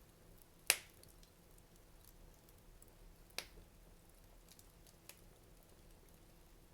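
Fire crackling in a fireplace. A sharp pop comes just under a second in, a smaller one about halfway through and a faint one later, over scattered tiny ticks.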